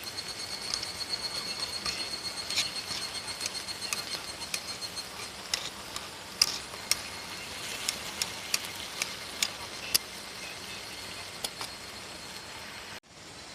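Rain falling steadily, with irregular drops ticking sharply on a tarp overhead, and a thin steady high-pitched insect call underneath. The sound cuts out briefly near the end.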